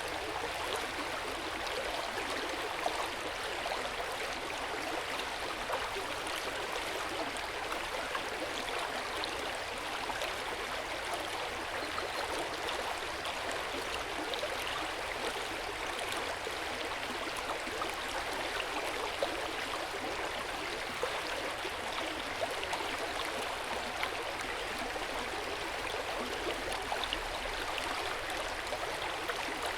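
Hot-spring water flowing steadily in an open-air bath: a continuous gentle burble of running water, flecked with many small splashes.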